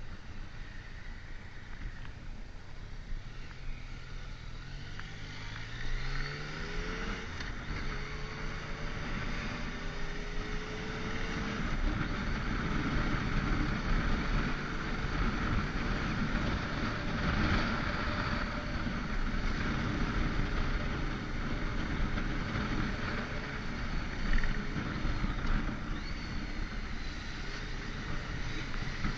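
Motorcycle engine pulling away and accelerating, its pitch rising over a few seconds about five seconds in, then running at a steady cruise with wind rushing over the microphone.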